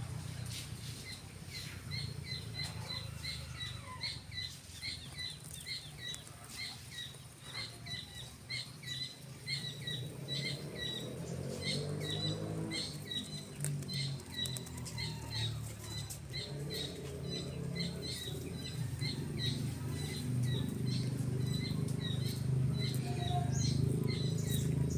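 A bird calling a short, high chirp over and over, about two or three a second, over a steady low rumble that grows louder toward the end.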